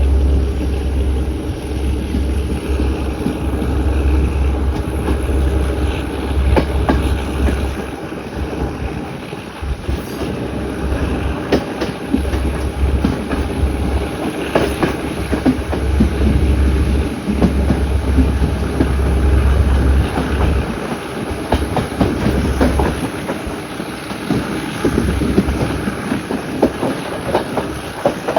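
Class S10 diesel-electric multiple unit running along the track, with a heavy low rumble and a run of wheel clicks over the rail joints that grows denser partway through. The rumble drops away near the end.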